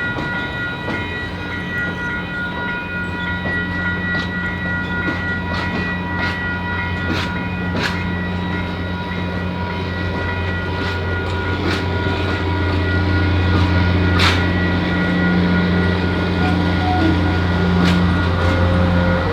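Train running on the track: a steady low rumble that grows louder over the last several seconds, with steady high tones and a few sharp clacks, the loudest about two-thirds of the way through.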